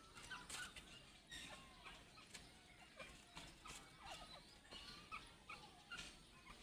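Teetar (francolins) giving faint, soft calls: many short chirps and little gliding cheeps, scattered several to a second, with a few light clicks between them.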